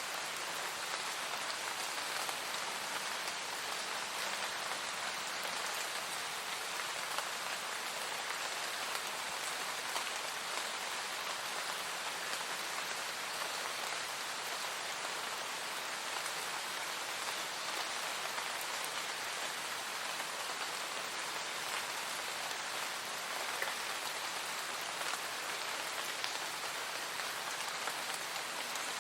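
Steady rain falling on a surface, a continuous even patter with fine individual drop ticks.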